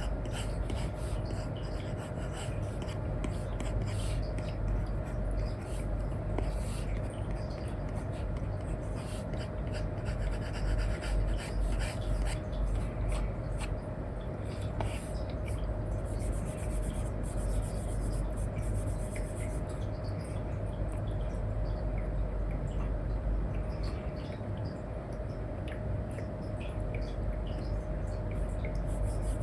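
Apple Pencil stylus with an Elecom nib scratching across a paper-like screen film on an iPad in many short, irregular strokes and taps, over a steady low hum.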